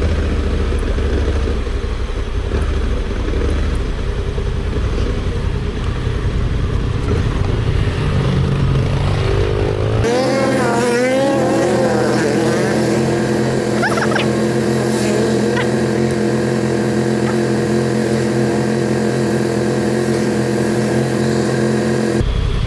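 Motorcycle engine running under way with low rumble. About ten seconds in the sound cuts to an engine revving up, then holding a steady pitch, before cutting off again near the end.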